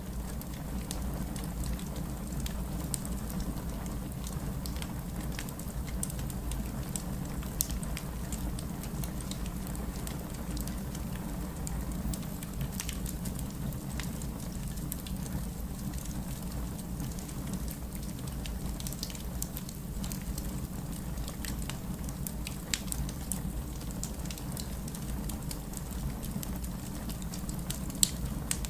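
Wood fire burning in a fireplace: a steady low rumble of the flames with scattered sharp crackles and pops, a couple of louder pops about eight seconds in and near the end.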